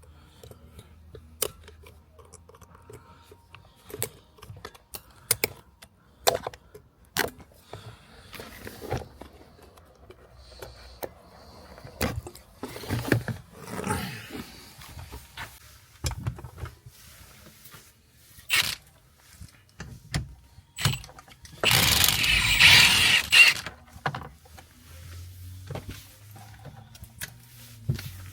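Scattered clicks, knocks and the clatter of hand tools while a car's airbag connectors are unclipped and the steering wheel is worked off. About 22 seconds in there is one louder, noisy burst lasting about two seconds.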